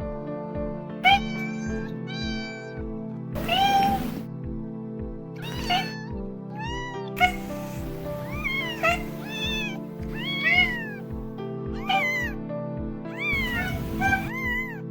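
Domestic cats meowing, about a dozen short meows that rise and fall in pitch, one after another with varied voices, over background music with a steady beat.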